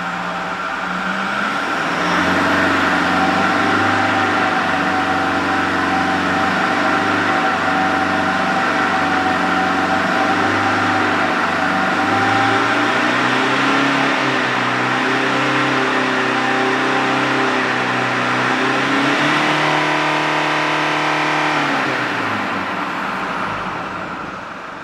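2008 Toyota Land Cruiser's 3.0 D-4D four-cylinder turbodiesel running. Its revs rise about two seconds in and are held up, stepping higher partway through, then fall away near the end.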